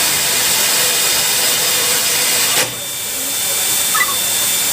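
Steady loud hiss and rush of steam from the footplate of NZR Ab-class steam locomotive Ab608, as the freshly fired boiler builds up pressure. The noise drops suddenly a little over halfway, then swells back up.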